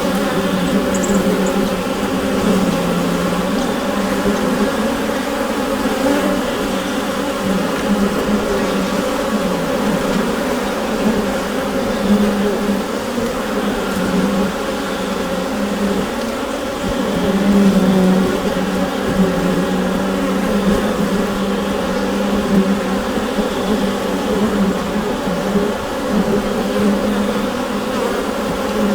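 Honeybees inside a hive: a dense, steady buzzing hum with a strong low drone, swelling a little now and then.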